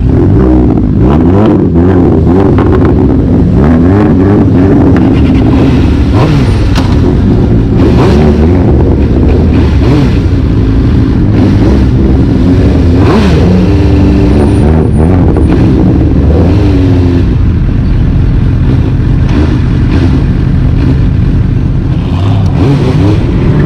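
Loud, close vehicle engine running under way, its pitch rising and falling over and over as it accelerates and eases off.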